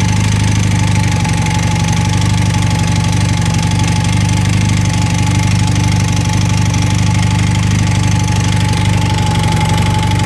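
1980 Honda CM400T's air-cooled parallel-twin engine running steadily at an even speed, with a thin steady tone above the engine note.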